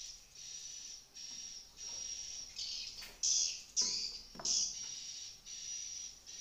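Swiftlets twittering: high chirps repeating in a steady pulsing rhythm, with a few louder, closer calls near the middle.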